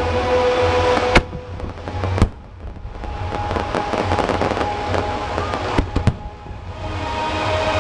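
Aerial fireworks bursting in a show. There are sharp bangs about a second in, just after two seconds, and twice in quick succession around six seconds, with dense crackling between them.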